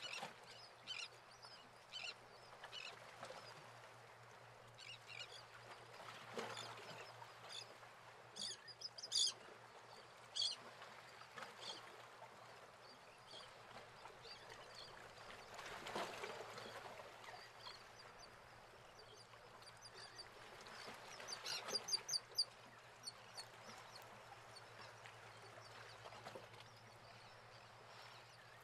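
Birds chirping in short scattered calls, with a quick run of chirps a little past the middle, over faint outdoor ambience and a low steady hum.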